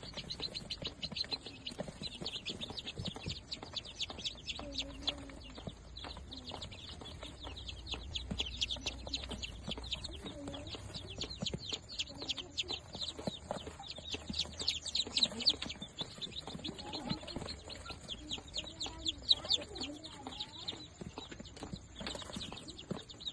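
A brood of day-old Darag native chicks peeping without pause, many high-pitched cheeps overlapping.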